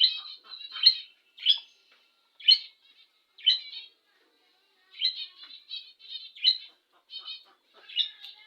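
Budgerigars chirping and warbling in short, bright calls, roughly one a second, with a brief pause near the middle.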